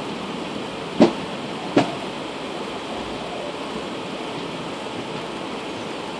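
Neelanchal Express running, heard from on board: a steady rush of wheels and wind with two sharp clacks about a second in, as the wheels cross a rail joint.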